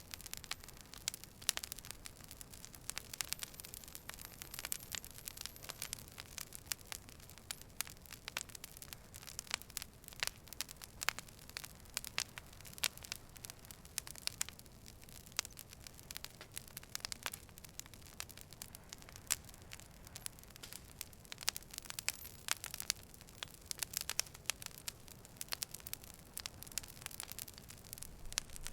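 Campfire crackling: irregular sharp pops and snaps, many per second, over a soft steady hiss.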